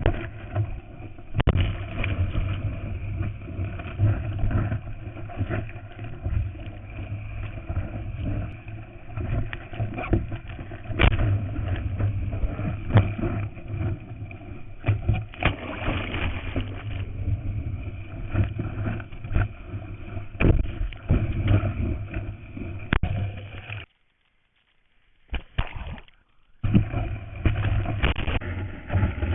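Wind and sea water rushing and splashing against a surfer's board-mounted or hand-held GoPro in its waterproof housing, with many knocks and buffets. Near the end the sound cuts out almost completely for about three seconds, broken by a couple of short bursts.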